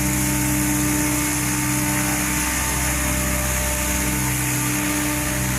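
Electric Goblin 700 R/C helicopter flying, its motor and main rotor giving a steady, even hum with a strong constant tone.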